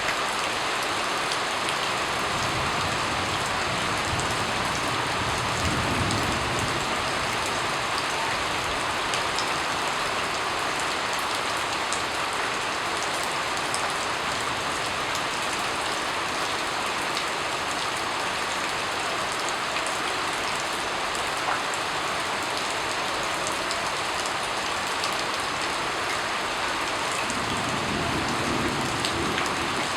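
Steady rain falling on a surface, a dense even patter of drops, with a faint low rumble swelling twice.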